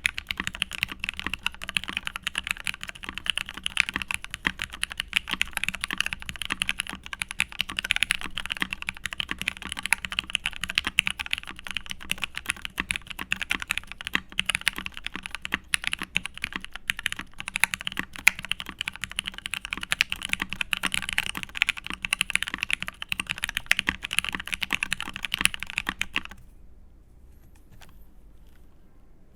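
Continuous fast typing on a custom mechanical keyboard with lubed vintage Cherry MX Black linear switches on an aluminium plate, with Cherry keycaps. The typing stops about three seconds before the end.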